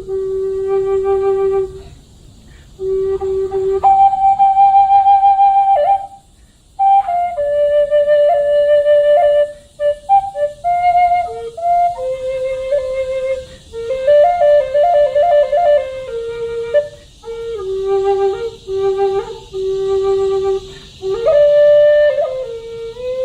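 A flute playing a slow melody, one note at a time, mostly held notes with short pauses between phrases and a quick trill in the middle.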